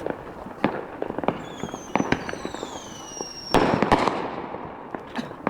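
Fireworks going off: scattered sharp pops, several whistles at once falling slowly in pitch, then a louder burst about three and a half seconds in that trails off.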